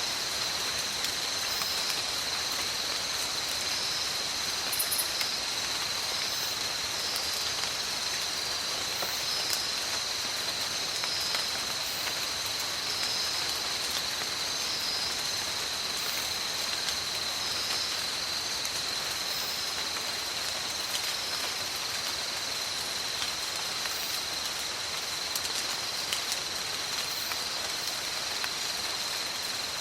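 Steady tropical rain falling through forest, with scattered drop clicks. Over it runs a continuous high-pitched drone and a high call pulsing about once a second.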